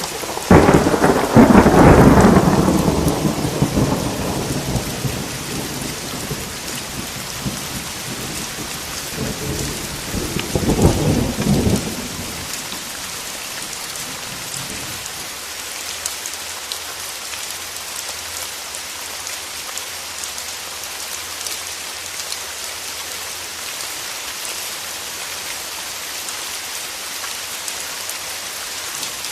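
Steady rain with a loud clap of thunder about half a second in that rumbles away over several seconds, then a second, shorter roll of thunder around ten seconds in. After that, the rain alone goes on.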